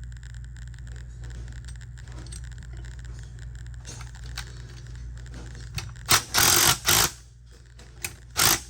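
Small steel parts of a golf cart starter-generator clinking and scraping as they are handled, with a few short, loud, harsh metallic bursts about six and eight seconds in, over a steady low hum.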